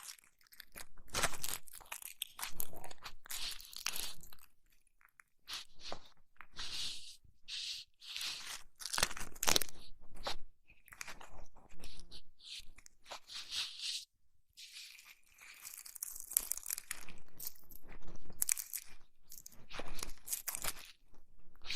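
ASMR ear massage on a binaural microphone's ears: close, crunchy, crinkly rubbing that comes in irregular bursts a second or two long, with short pauses between them.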